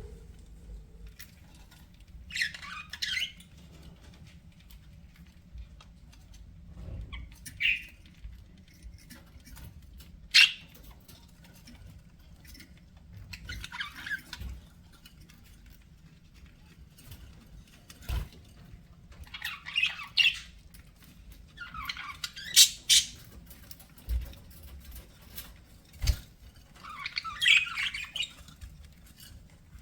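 Budgerigars chirping and chattering in short scattered bursts with quiet gaps between, plus a few sharp knocks.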